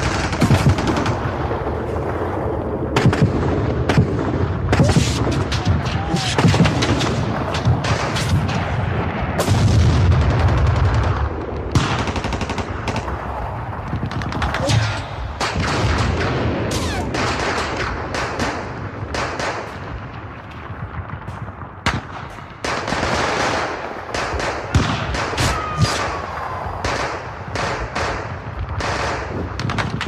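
Battle sound effects: dense, continuous gunfire and machine-gun bursts with a heavy low rumble about ten seconds in.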